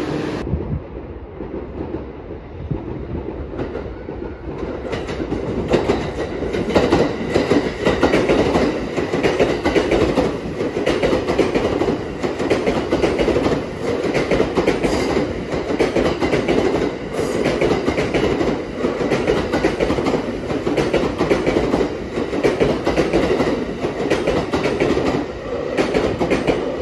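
Electric train running on rails with a steady rumble and a repeated clickety-clack of wheels over rail joints. The rumble builds over the first few seconds as the train gathers speed.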